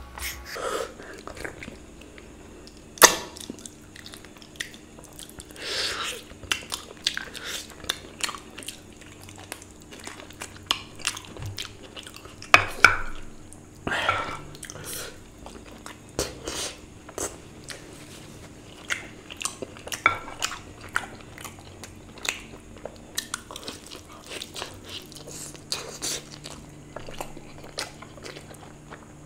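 Close-miked chewing and mouth sounds of a person eating mutton curry by hand: irregular wet smacks and sharp clicks, with a couple of louder ones about three seconds in and again around twelve to thirteen seconds in.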